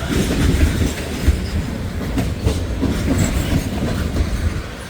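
Long autorack freight train rolling past: steady low rumble of the cars with wheels clicking over the rail joints.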